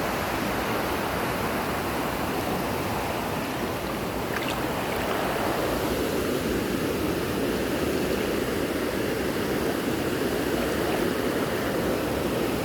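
Steady rush of running water. About six seconds in it turns slightly fuller and lower.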